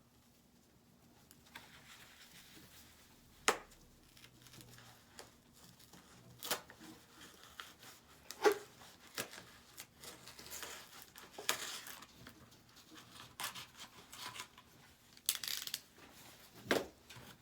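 A sheet of insulation material being cut to length and handled: scattered cutting and tearing sounds, rustling and crinkling, and a few sharp clicks.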